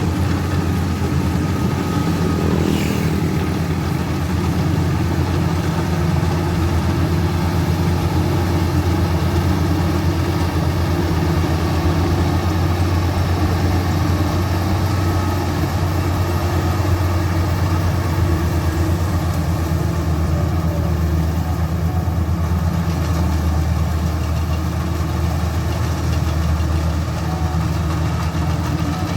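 Combine harvester engine running with a steady low drone.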